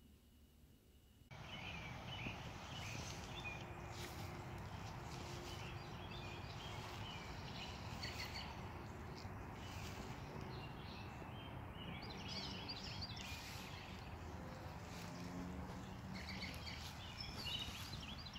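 Birds chirping in short bursts over steady outdoor background noise, beginning about a second in after near silence.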